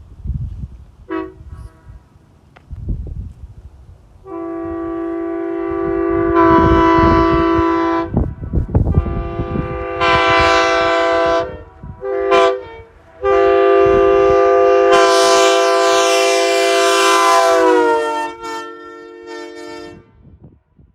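Bronze tab-back Nathan S3K three-chime locomotive air horn, the horn of the Great Northern Railway, sounding a chord in a series of blasts: a short toot, a long blast that swells louder partway through, a shorter blast, a quick toot, then a final long blast whose pitch sags as it dies away. Wind rumbles on the microphone underneath.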